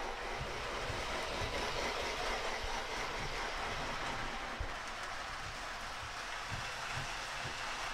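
Lionel Peanuts Great Pumpkin O gauge toy steam locomotive and cars running steadily around the track, a constant rushing sound from wheels and motor with scattered low knocks as the wheels cross rail joints.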